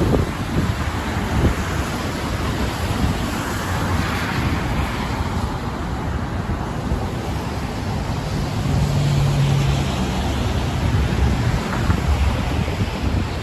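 Wind buffeting the microphone over a steady rush of traffic on the bridge roadway, with a low hum lasting about a second and a half near the middle.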